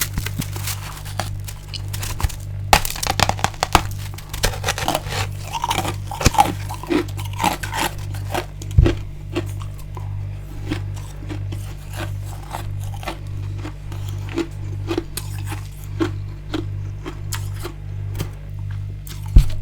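Crunching and chewing of frozen freezer frost and ice: many crisp crackles and crunches, thickest in the first half and sparser later. A low pulsing hum runs underneath.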